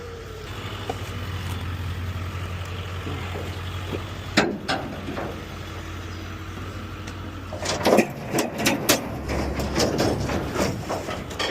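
Diesel heavy machinery engine running steadily on a demolition site, with a sharp knock about four seconds in and a run of clanks and knocks near the end as debris is handled.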